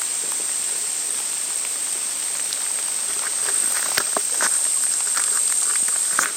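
Insects droning steadily in one high tone, with scattered light ticks and taps over the second half.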